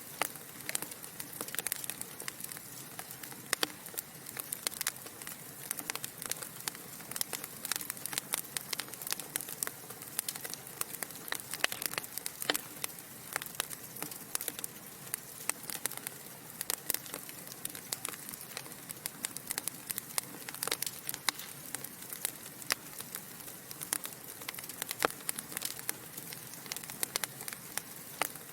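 Wood fire burning in a fireplace, logs crackling and popping in dense, irregular clicks over a soft steady hiss.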